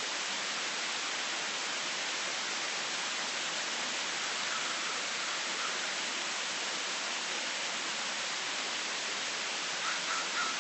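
Heavy, steady rain falling, heard as an even, unbroken hiss.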